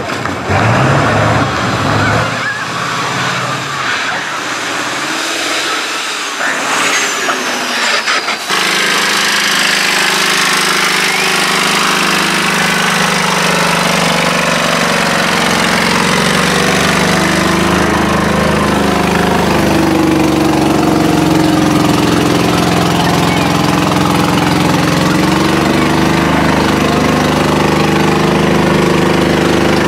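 Tractor engine running steadily, starting abruptly about eight seconds in and holding an even pitch that steps up slightly about halfway through. Before that, mixed outdoor noise with some voices.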